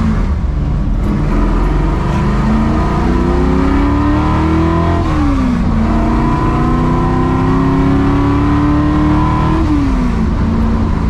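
AMC Javelin AMX's 401 V8 accelerating hard through the gears of its five-speed manual. The engine note climbs steadily, drops at an upshift about five seconds in, climbs again, and drops at a second upshift near the end.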